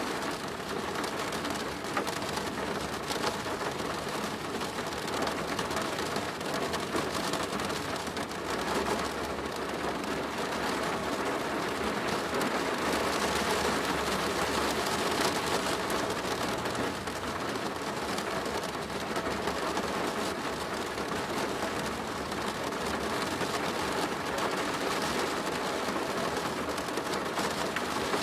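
Steady heavy rain drumming on a plastic roof, a dense patter of drops with a low rumble underneath that swells around the middle.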